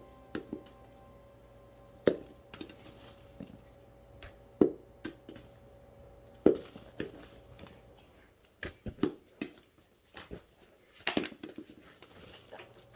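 Rubber bouncy ball bouncing, each hard hit followed by a few smaller quick rebounds with a short hollow ring. The hits come about every two seconds at first and more often in the second half. Faint music plays underneath.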